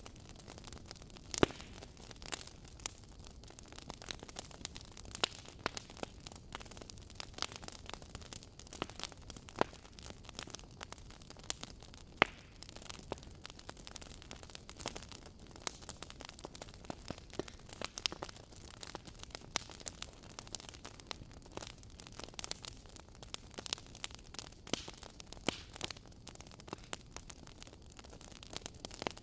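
Wood fire crackling: irregular sharp pops and snaps over a steady hiss, with two louder pops about a second and a half in and about twelve seconds in.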